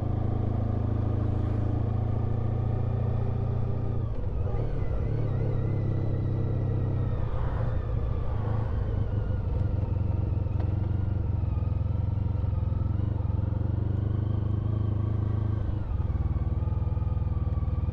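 Honda ST1300 Pan European's V4 engine running at low speed and idling as the motorcycle pulls over and stops, its pitch shifting up and down a few seconds in and settling to a steady idle.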